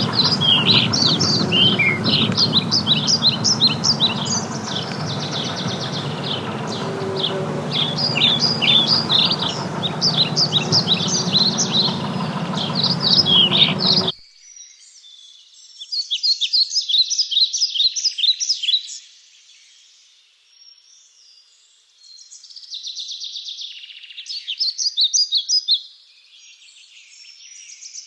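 Songbirds chirping and singing in quick high trills over a steady low background rumble. About halfway through the rumble cuts off abruptly, leaving only bursts of bird song a few seconds long with short quiet gaps between them.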